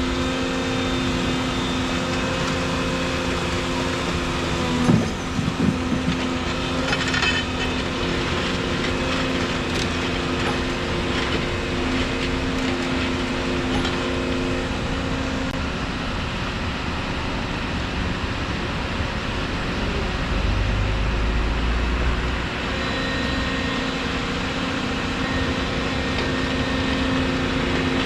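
Volvo 235EL excavator running steadily. A few sharp knocks come about five seconds in, then scattered clatter of working contact for several seconds. A brief low rumble follows later on.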